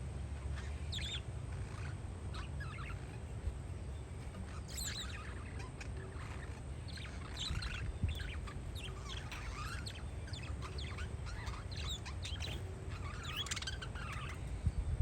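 Parakeets chirping in scattered, overlapping bursts over a steady low rumble of wind on the microphone.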